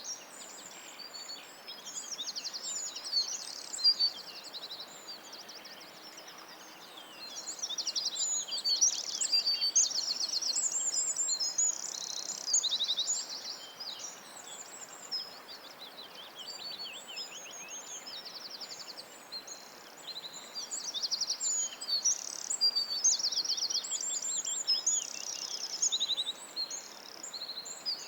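Small birds singing and calling: high-pitched chirps and rapid trills of quickly repeated notes, often overlapping, over a faint steady hiss.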